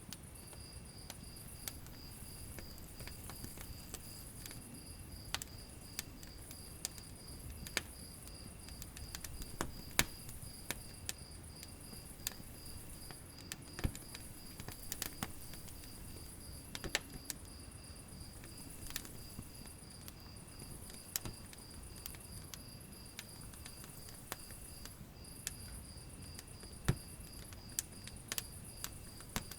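Wood fire crackling in a fireplace, with sharp pops and snaps at irregular intervals over the soft low rush of the flames. A steady, high-pitched pulsing trill runs behind it.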